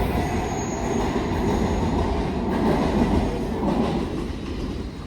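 MARTA rapid-transit train running on the rails: a steady rumble with a thin, high wheel squeal lasting about a second near the start. The sound gets quieter after about four seconds.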